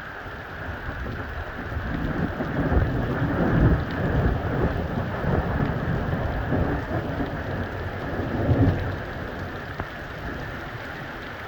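Steady rain with a long roll of thunder: the rumble builds about two seconds in, peaks twice, and dies back into the rain near the end.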